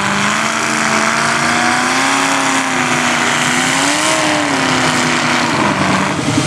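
Mud truck engine running hard under load, its pitch climbing steadily, swelling higher about four seconds in, then dropping off near the end.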